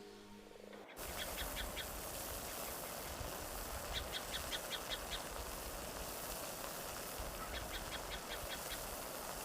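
Soft music fades out, then a bird calls in three short runs of quick, high notes over a steady outdoor hiss.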